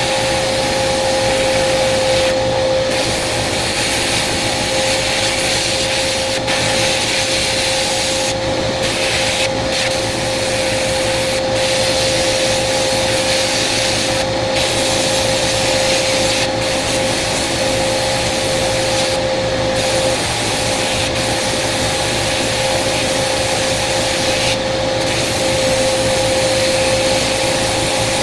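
Sandblasting: compressed air and abrasive hissing steadily from a blast gun over a steady hum. The hiss cuts out briefly about nine times, as the gun is let off for a moment.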